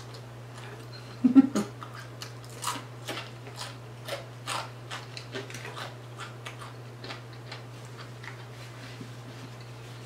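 Close-miked mouth sounds of a person chewing fried fish: irregular wet smacks and crisp clicks, thickest in the first half and thinning out later, with a short low hum from the eater about a second in.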